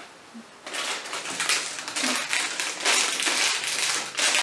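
A crinkly plastic snack packet being handled, a dense run of crackles and rustles that starts under a second in and cuts off suddenly at the end.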